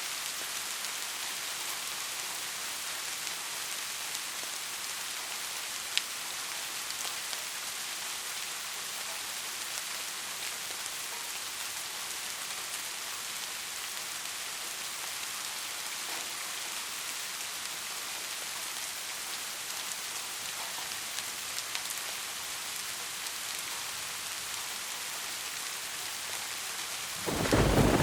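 Steady rain falling, an even hiss with occasional sharp drop ticks. About a second before the end, thunder breaks in, suddenly much louder and deeper.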